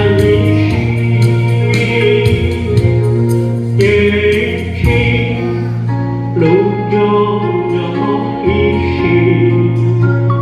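A group singing a Christian hymn over steady instrumental backing.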